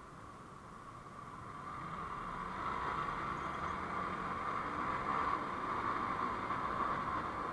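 Vehicle travel noise on the road, a steady rushing without any clear tone, growing louder over the first few seconds and then holding steady.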